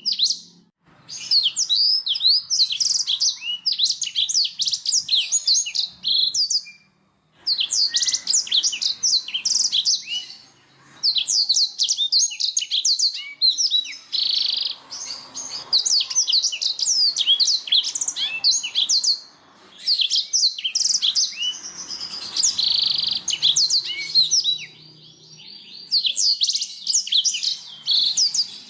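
Canary singing long, fast phrases of trills and sharp chirps, with short pauses between the phrases.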